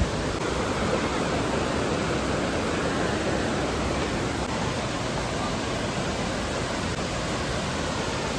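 Steady rushing of a waterfall: falling water making an even, unbroken noise.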